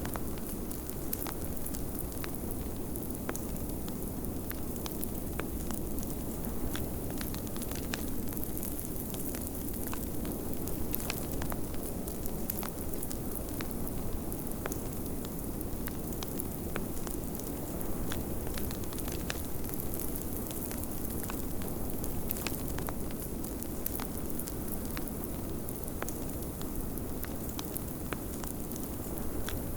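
Wood fire crackling, with frequent small irregular pops, over a steady low rush of blizzard wind.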